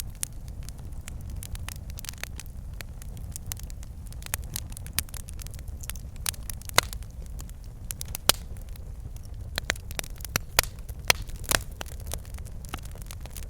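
Wood fire burning in a fireplace: logs crackling and popping at irregular moments over a steady low rumble of flame.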